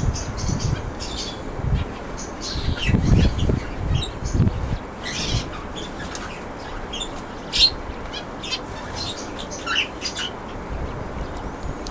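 Canaries chirping, with short high calls and brief trills scattered throughout, over low rumbling noise in the first few seconds.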